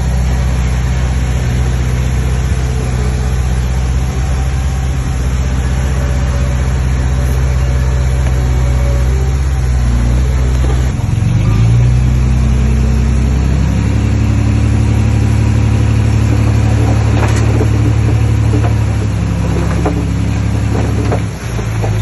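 Heavy diesel engine of earthmoving machinery running steadily, rising in pitch partway through as it comes under more throttle. A few knocks sound near the end.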